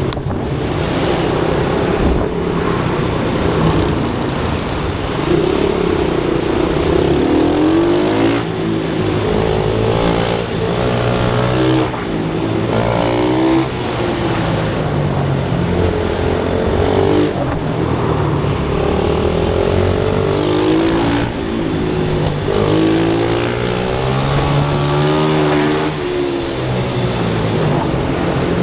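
Small pit bike motorcycle engines revving on a track: the engine pitch climbs and drops again and again as the bikes accelerate and shift, over a steady low drone.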